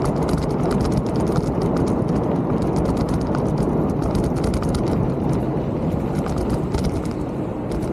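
Mountain bike rolling over rough trail, its parts rattling and ticking with many sharp clicks, over steady rushing wind and tyre noise on the camera's microphone.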